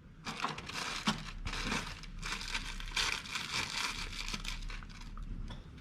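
Handling noise as the camera is picked up and moved: continuous rustling and crinkling against the microphone, with many small clicks and knocks.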